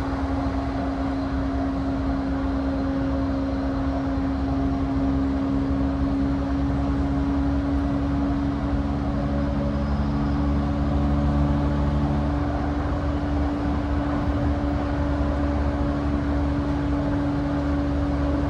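Running sound inside a motor car of a JR E235-1000 series electric train (Mitsubishi full-SiC MOSFET VVVF inverter) at a steady speed: a constant rumble of wheels on rail with a steady hum from the traction equipment. Some of the lower hum tones cut out about twelve seconds in.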